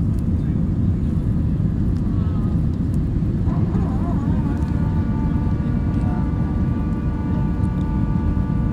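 Steady, low-pitched jet engine and airflow noise of an airliner climbing after takeoff, heard from inside the passenger cabin.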